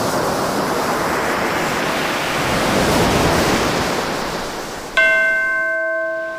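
An ocean wave washes in, swells and recedes. About five seconds in, a bell is struck and rings on with several steady tones.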